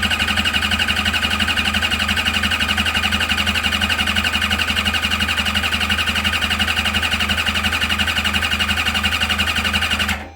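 Starter motor cranking the turbocharged Suzuki GSX-R1000's inline-four engine over fast and evenly on two batteries at about 15 volts, building close to 60 psi of oil pressure while cranking. It stops abruptly near the end.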